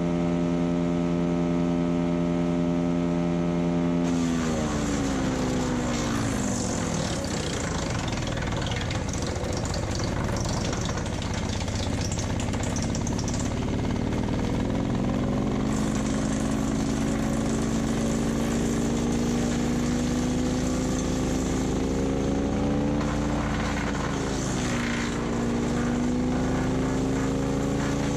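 Split-Fire 4090 wood chipper's gas engine running at speed, then bogging down about four seconds in as it chips old, dry, brittle deadwood, with the crackling grind of branches going through the rotor. The engine slowly winds back up, dips briefly again near the end, and recovers.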